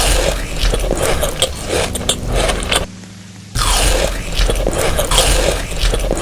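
Close-miked crunchy biting and chewing of food, full of sharp crackles, in two stretches broken by a short gap about three seconds in.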